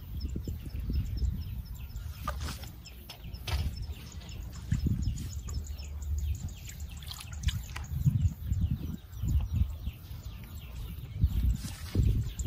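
Small birds chirping and twittering in many short high calls, over irregular low rumbling and knocks.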